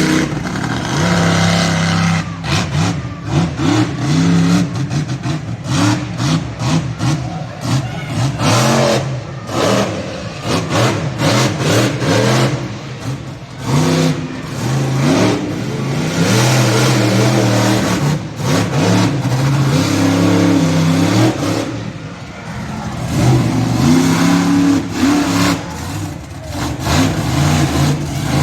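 Monster truck engine running hard, revving up and dropping back again and again.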